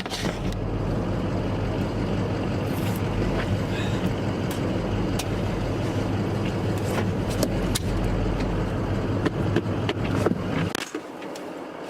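Snow plow truck running, heard from inside the cab: a steady low engine and road rumble with scattered knocks and clicks. The low rumble cuts off suddenly near the end.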